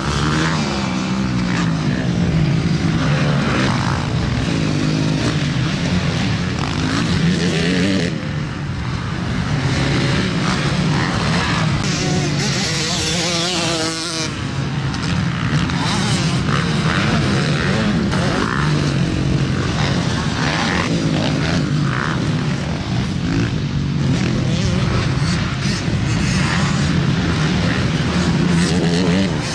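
Motocross bikes racing, their engines revving up and down continuously as they ride the track.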